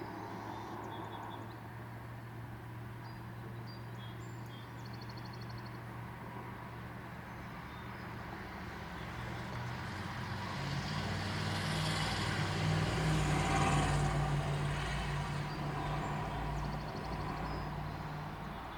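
A motor vehicle passing: a low engine hum that swells to its loudest about two-thirds of the way through, then fades. A few short, high bird chirps sound over it.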